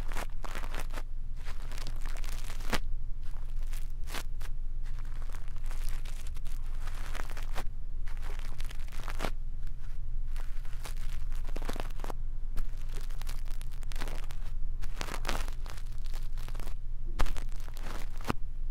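ASMR brush strokes rubbing and scratching close on a microphone, as in brush ear cleaning: irregular crackly swishes, some short and sharp, some drawn out, over a steady low hum.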